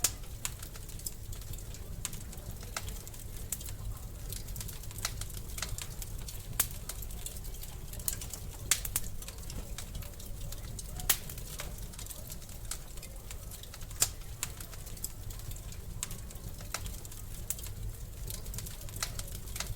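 Wood fire crackling in a fireplace: irregular sharp snaps and pops over a low steady rumble, with a few louder pops in the middle.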